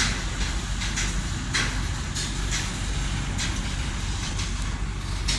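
Freight train cars rolling past with a steady low rumble of wheels on rail, and sharp clacks about twice a second as the wheels cross rail joints.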